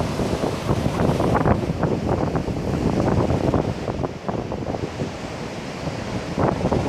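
Heavy typhoon surf breaking on the beach, with strong wind buffeting the microphone. The noise eases a little about four seconds in and builds again near the end.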